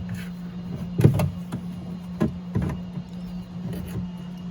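Hard clicks and knocks from a car door latch and lock actuator being twisted and worked out through the inner door panel cavity, loudest about a second in, over a steady low hum.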